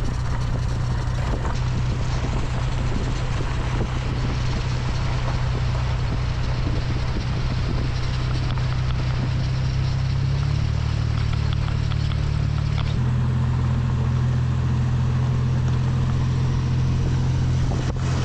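Toyota Sunrader camper driving slowly on a washboard dirt road: a steady engine note whose pitch shifts twice in the second half, over rough tyre and road noise.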